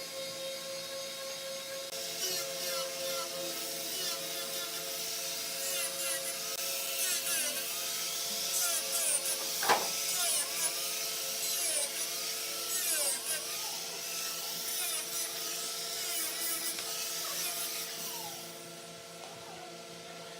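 A tool working wood in repeated strokes over a steady hum, with a sharp click about halfway through; the stroking stops shortly before the end.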